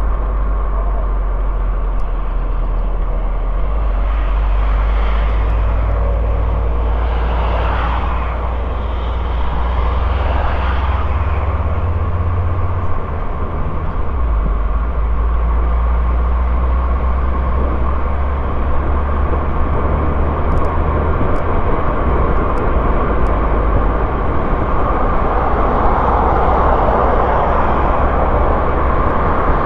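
Car engine and tyre noise while driving, a steady drone whose low engine note shifts a couple of times, with a swell of passing-traffic noise midway.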